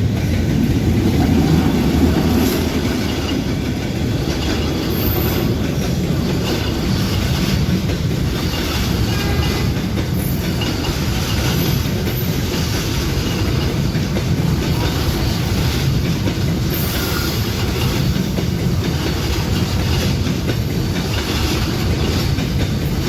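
Train running on the rails: a steady, loud rumble of wheels on the track that holds at an even level throughout.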